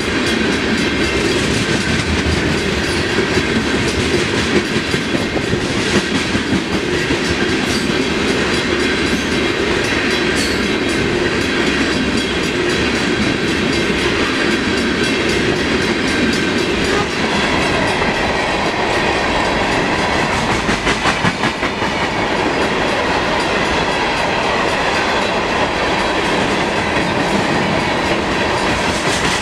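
A Long Island Rail Road train passing through the station, its wheels clicking steadily over the rail joints.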